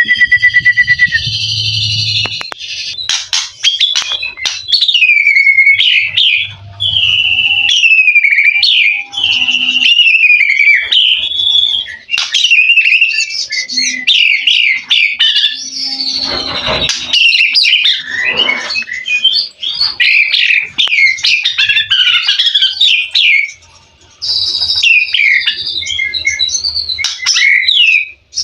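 White-rumped shama (murai batu) singing a long, varied song of loud sweeping whistles and rapid warbled phrases packed with imitated calls, pausing briefly about 24 seconds in.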